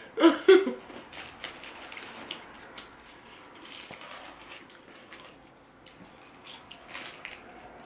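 Close-up eating sounds of a burger and fries being chewed: many small, faint, irregular mouth clicks and smacks. A brief loud vocal sound comes just after the start.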